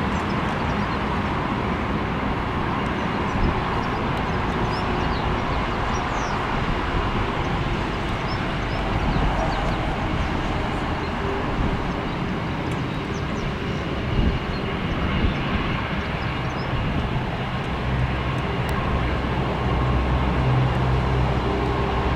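Jet airliner engines at take-off thrust, a steady rumbling noise that grows a little stronger in the bass near the end.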